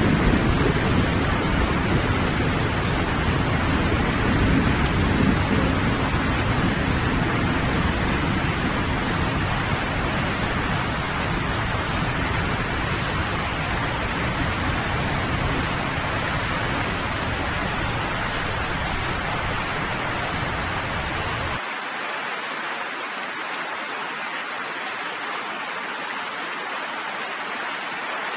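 Steady rain falling, with a low rumble of thunder underneath that slowly fades and then cuts out suddenly about three-quarters of the way through, leaving only the rain.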